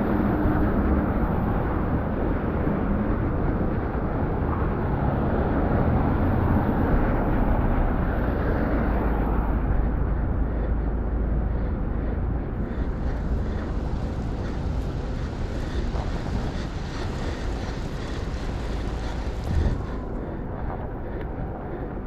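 Steady rush of wind on the microphone mixed with road noise while riding a Cannondale Six13 road bike on wet streets, heaviest in the low end and easing a little in the second half.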